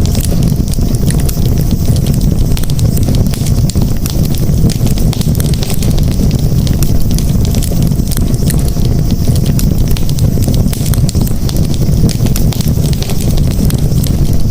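Campfire burning, with a steady low rumble under a constant scatter of small crackles and pops from the burning wood.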